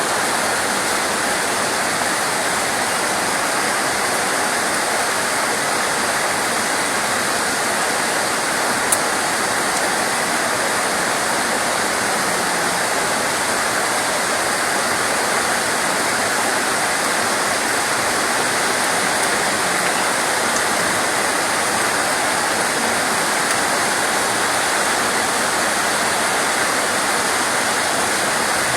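Steady heavy rain: a continuous, even rushing hiss, with a single faint click about nine seconds in.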